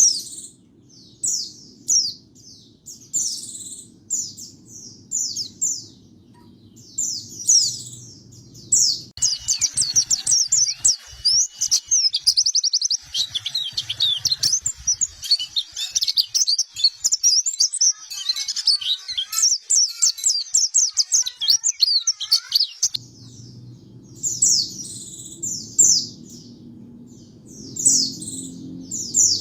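White-eye (pleci) singing: short high chirps with gaps between them. About nine seconds in it breaks into fast, continuous twittering song for some fourteen seconds, then goes back to spaced chirps.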